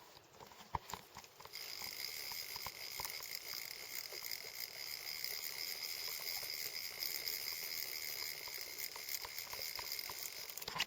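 Fly reel drag buzzing steadily as a hooked trout runs and pulls line off the reel, starting abruptly about a second and a half in and stopping just before the end; a few small clicks before it starts.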